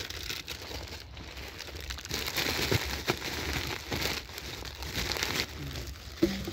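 Close, irregular rustling and crinkling of puppies shifting about in a lap against clothing, with a short pitched sound near the end.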